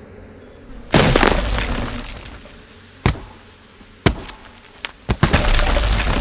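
Wood being struck and broken open: a loud cracking crash about a second in, a few single sharp knocks, then another long cracking crash near the end.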